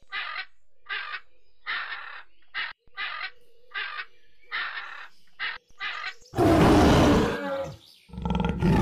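A bird gives about ten short, harsh, crow-like calls at roughly one a second. Then a large animal roars loudly twice, the first roar about six seconds in and the second about eight seconds in.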